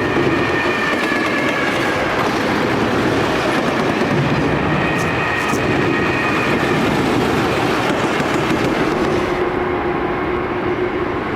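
Freight train passing close by on an electrified main line: steel wheels clattering over rail joints under a loud steady rumble, with a faint steady whine from the electric motors.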